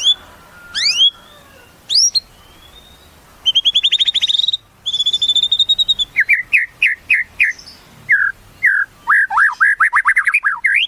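White-rumped shama (murai batu) singing a varied song. It opens with a few rising whistled sweeps, goes into two fast trills, and ends with runs of quick repeated notes.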